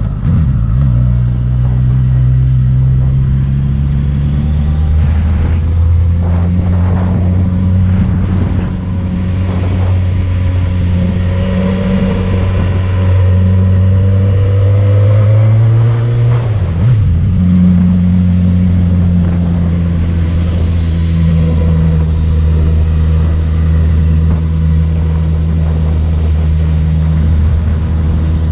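Motorcycle engine running steadily under load on a climb, heard from the bike itself; its pitch rises and then drops with a gear change about seventeen seconds in.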